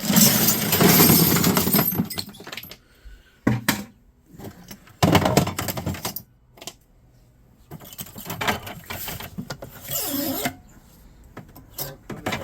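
Scrap metal and debris clattering and rustling as it is handled, in irregular bursts: a long one at the start, then shorter ones with quiet gaps between.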